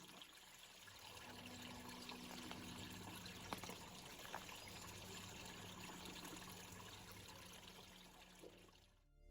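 Faint, steady rush of a small burn (stream) flowing, with a few light clicks.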